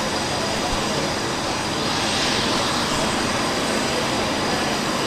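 Aircraft engine noise, a steady even rush that swells slightly about two seconds in.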